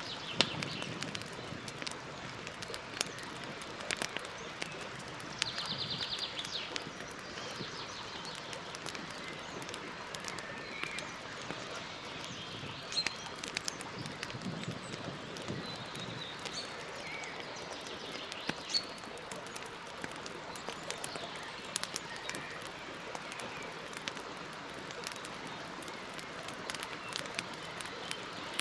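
Campfire crackling, with irregular pops and snaps over a steady hiss, while small birds chirp; one gives a quick trill about six seconds in.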